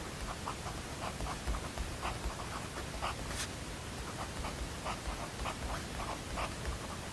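Pen writing on paper in short, irregular scratchy strokes, several a second, over a steady white-noise hiss.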